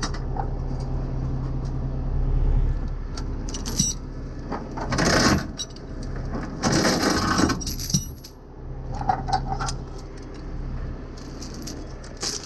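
A truck's diesel engine idling steadily, with scattered metallic clinks and rattles and two loud hissing rushes about five and seven seconds in.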